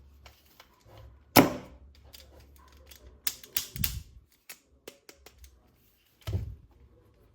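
Hard plastic toy parts being handled: irregular sharp clicks and knocks, with one loud knock about a second and a half in and a quick cluster of clicks midway.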